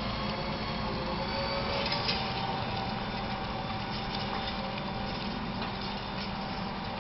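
A vehicle engine running steadily, with a few faint clicks.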